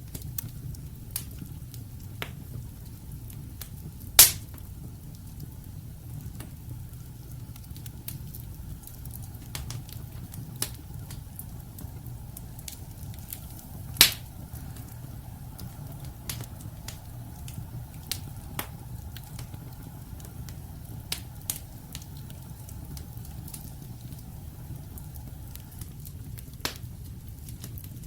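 Wood logs burning in a fireplace: a steady low rumble of the flames with scattered crackles and snaps, and two louder pops, about four seconds in and about fourteen seconds in.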